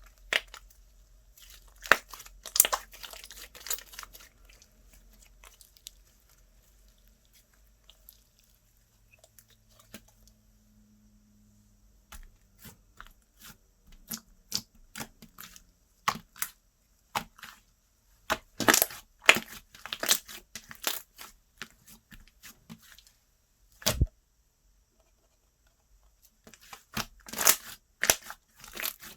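Slime being pressed, stretched and pulled apart by hand, making clusters of sticky clicks and crackling pops with quieter pauses between handling.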